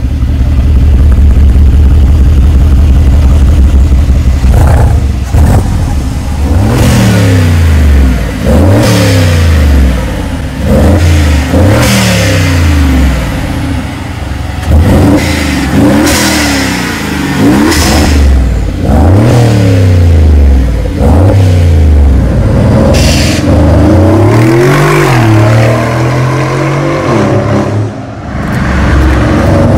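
Big-turbo Mercedes-Benz G55 AMG V8 engine, first running steadily for a few seconds, then revved over and over, the revs rising and falling about every two seconds. Short sharp bursts sound at many of the rev peaks.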